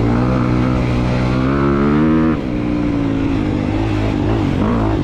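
2022 Honda CRF250R's single-cylinder four-stroke engine under way, climbing in revs for about two seconds, then dropping sharply. It then runs on at lower revs with small rises and falls.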